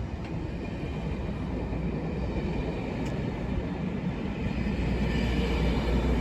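A pair of British Rail Class 37 diesel locomotives running, their English Electric V12 engines making a steady low rumble that gets louder about five seconds in.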